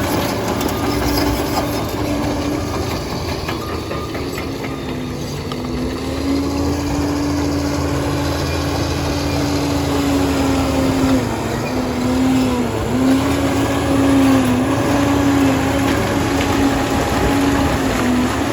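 Liebherr 746 crawler dozer working, its diesel engine running with a steady droning tone that dips in pitch several times in the second half and recovers, as the engine takes load.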